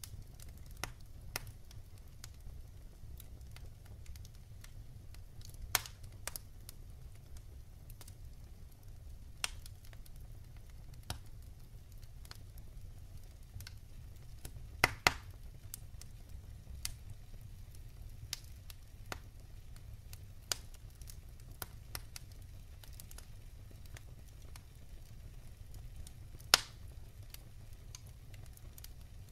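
Wood fire burning in a fireplace: a low steady rumble of the flames with sharp crackles and pops of burning logs at irregular intervals, the loudest a double crack about halfway through and a single pop near the end.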